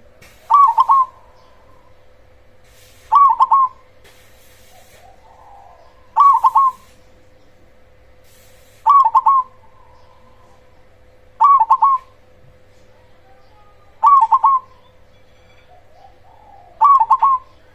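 Zebra dove (perkutut) singing its cooing song: seven short calls of three or four quick rolling notes, one about every two and a half seconds, over a faint steady hum.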